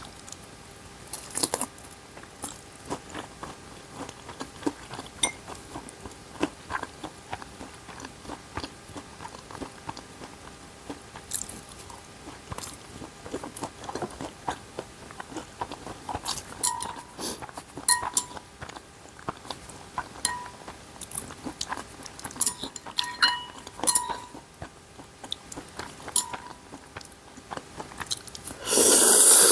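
Someone eating ramen and dumplings: scattered chewing and short clicks of utensils against the dishes, some with a brief ring. A loud rush of noise lasting about a second comes near the end.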